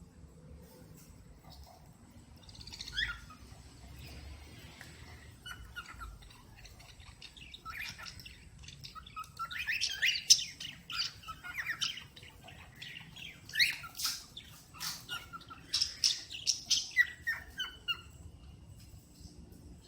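Cockatiel chirping and whistling in short, bright calls, sparse at first and coming in quick runs in the second half.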